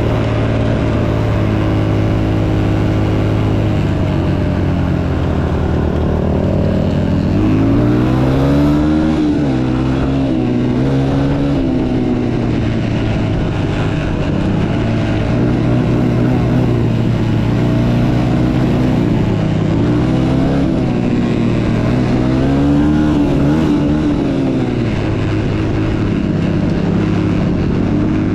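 Motocross dirt bike engine running under way, holding steady revs at first, then revving up and back down twice as the throttle is worked.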